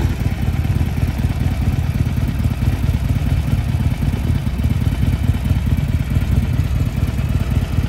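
Harley-Davidson motorcycle engine running steadily, a deep, even pulsing rumble.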